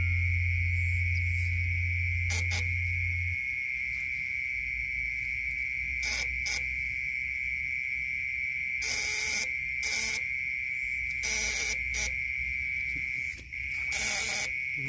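Night insects chirring in one steady high-pitched drone, with a low hum that stops about three seconds in and a few short rustling or splashing noises from about nine seconds in.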